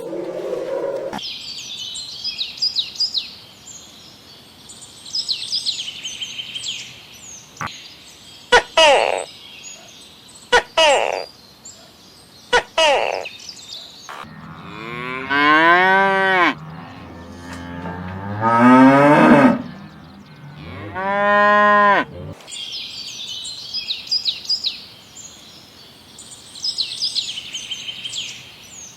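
A cow mooing three times, each moo a long call that rises and then falls, about halfway through. Birds chirp faintly before and after the moos.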